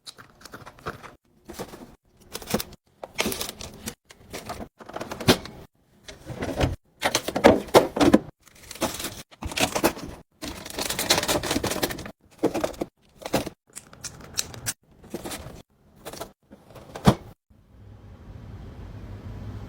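Clattering and knocking of containers and food items being handled and set down in a refrigerator, in short bursts broken by brief silences. A low steady hum comes in near the end.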